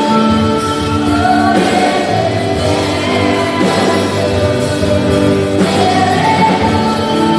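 Live gospel worship music: a group of singers holding long notes over instrumental accompaniment.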